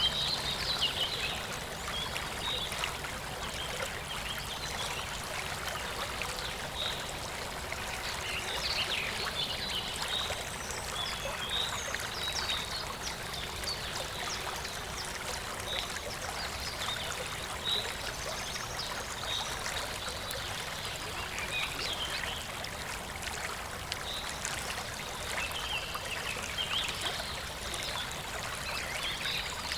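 Clear stream water flowing and babbling steadily, with scattered brief high-pitched sounds throughout.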